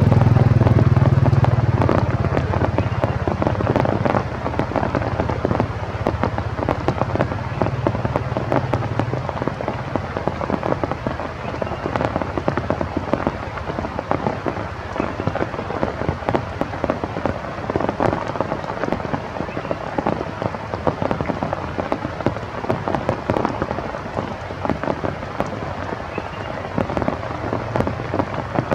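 Steady rain, with many drops hitting surfaces. A low rumble fades out in the first couple of seconds.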